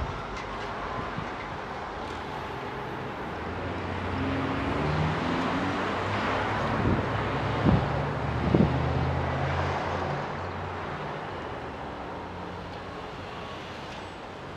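A yellow Seibu electric commuter train running away along the line while a car passes nearby. The noise swells in the middle, with a low engine-like hum and two or three short knocks, then fades.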